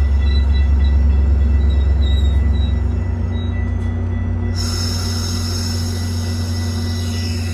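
Metra commuter train running past on the tracks: a heavy low rumble with a faint steady squeal from the wheels. The rumble eases about three seconds in, and a hiss comes in a little later.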